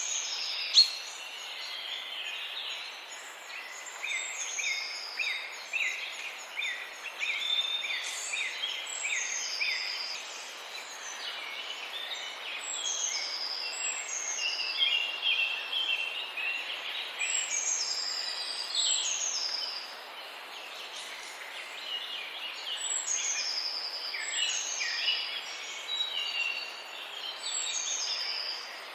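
Many small birds calling at once: short, high, downward-sliding chirps overlapping continuously over a steady hiss, with one sharp click about a second in.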